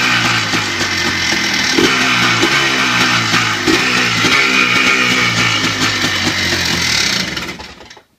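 Yamaha Blaster's 195cc single-cylinder two-stroke engine running on choke just after a cold start. Its speed rises and falls a little, then it stops near the end.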